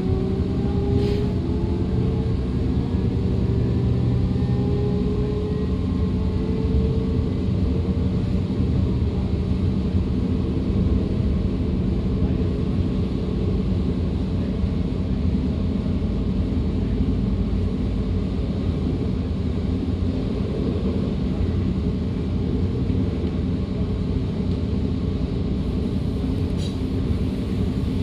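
On-board sound of a DB Class 425 electric multiple unit under way: a steady rumble of the running gear, with the traction converters' whine rising slowly in pitch over the first several seconds and fading out. A couple of faint clicks are heard, about a second in and near the end.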